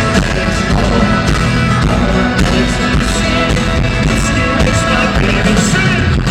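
Live country rock band playing loudly through a concert PA, with guitars, bass and drums at a steady beat.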